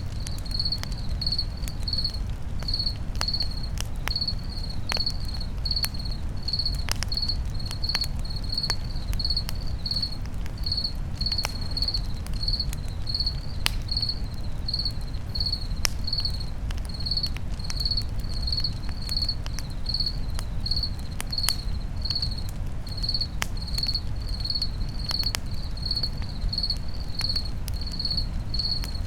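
A cricket chirping steadily, about two short high chirps a second, over a crackling campfire: scattered sharp pops and snaps above a low steady rumble.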